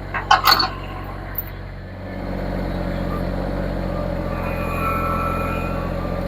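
Tractor engine running, then throttled up about two seconds in, louder and higher, as it pulls an old fence post out of the ground. A few short, sharp noises come right at the start.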